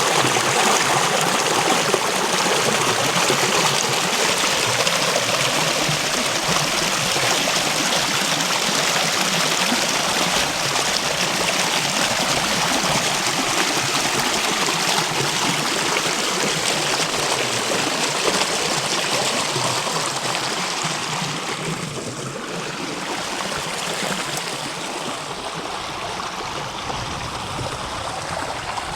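River water running over stones, a steady rushing stream that eases off a little near the end.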